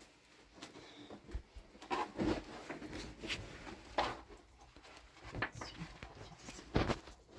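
Irregular knocks, taps and scrapes of objects being handled and worked, with sharper knocks about two seconds in, about four seconds in and near the end.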